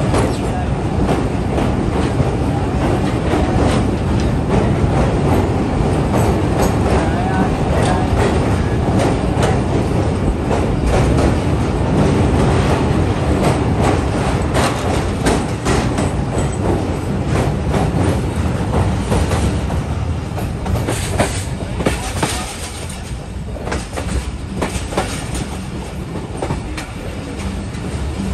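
Passenger train coaches rolling over a steel truss railway bridge, heard from an open coach door: a dense, steady rumble with frequent sharp clicks of the wheels over the rails. The rumble eases a little about three quarters of the way through.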